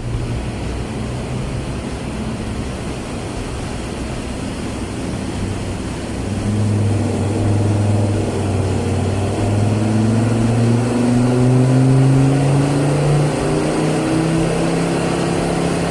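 Ford Ranger 3.2 five-cylinder turbodiesel running under load on a dyno. It runs steadily for several seconds, then pulls through the revs with its pitch climbing slowly and getting louder, and holds near the top toward the end.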